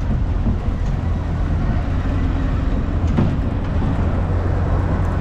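A moving vehicle's steady low rumble, with a single knock about three seconds in.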